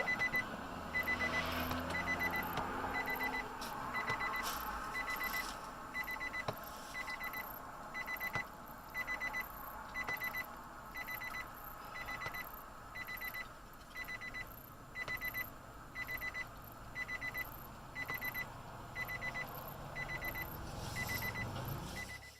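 An electronic beeper sounds a short cluster of quick high beeps about once a second, over the steady noise of a car on the road.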